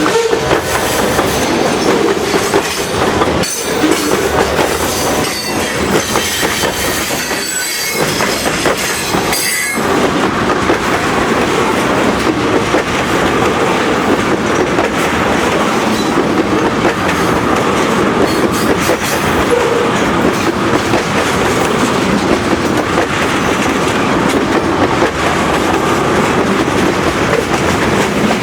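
Freight cars of a Portland & Western train rolling steadily past, wheels clacking over the rail joints, with sharper clacks in the first ten seconds and a steadier rumble after.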